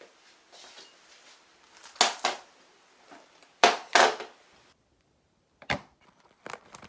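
Several short, sharp clunks and knocks of things being handled at home, two pairs close together and a last single one near the end, with faint rustling between.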